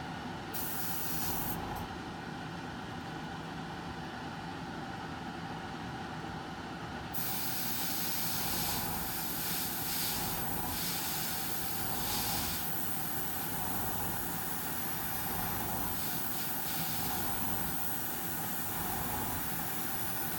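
Airbrush hissing as it sprays, over a steady low hum. The hiss comes in briefly near the start, then runs on from about seven seconds in, swelling and easing as the trigger is worked.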